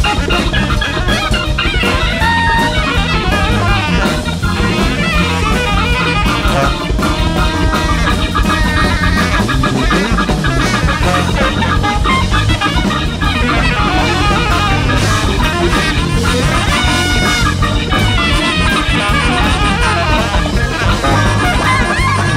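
Large free-jazz-based big band playing live: a dense, driving groove with drum kit and electric guitar.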